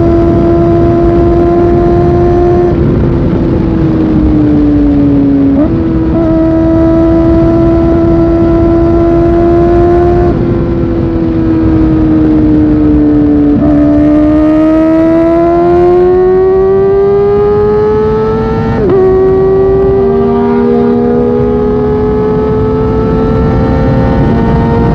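Kawasaki Ninja ZX-4R's 399 cc inline-four engine heard on the move. The revs hold steady, sag off, and jump up abruptly at downshifts, about three seconds in, about six seconds in and again near nineteen seconds. Before the last of these the engine pulls in a long, steady rising climb under acceleration. A steady low rushing noise runs underneath.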